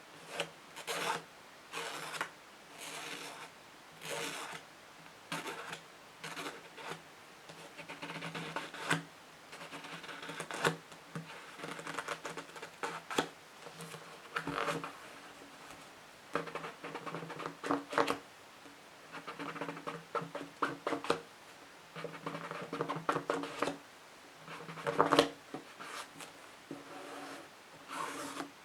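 Fingernails scratching and tapping on books, in short irregular strokes with a few sharper taps.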